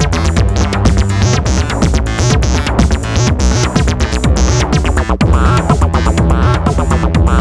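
Eurorack modular synthesizer electronic music: an acid-style sequence from Make Noise DPO and XPO oscillators over a steady bass, with ticking drum-machine percussion. About five seconds in, bright swooping filter sweeps come in, one after another.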